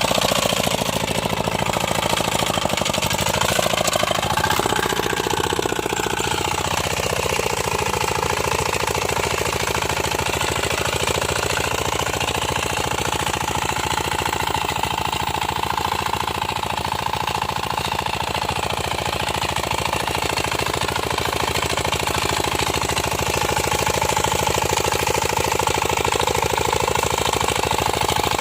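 Small tractor's engine running with a fast, even chugging while it pulls a cultivator for weeding. Its pitch wavers in the first few seconds, then holds steady.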